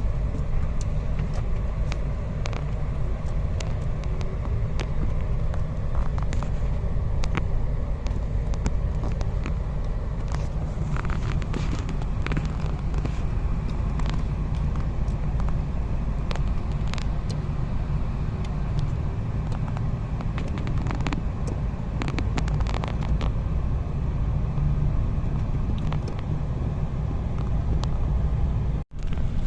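Car on the move: a steady low rumble of engine and road noise, with frequent small clicks and rattles. The sound cuts out for a moment near the end.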